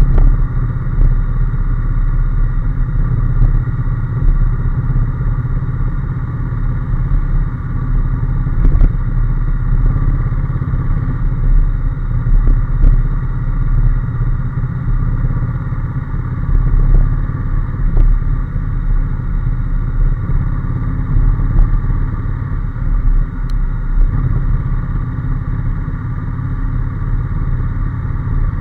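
Honda NC750S motorcycle's parallel-twin engine running at a steady pace while riding, a continuous even drone with no revving up or down.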